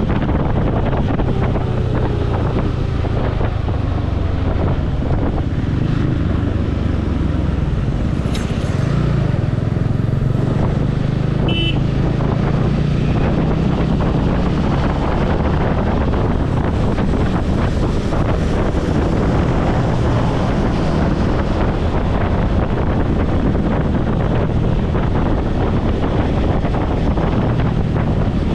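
Motorcycle engine running steadily while riding in traffic, with wind rushing over the helmet-mounted microphone. A short high-pitched beep sounds about twelve seconds in.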